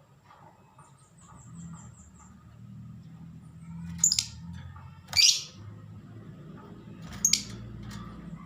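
A pet lovebird gives three short, loud, shrill calls, about a second or two apart, after some faint high twittering near the start.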